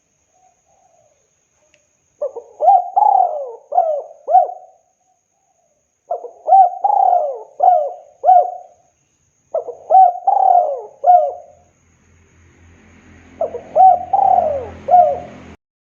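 Spotted dove cooing: four phrases of several coos each, a couple of seconds apart. Under the last phrase a low hum and hiss come in, and the sound cuts off abruptly near the end.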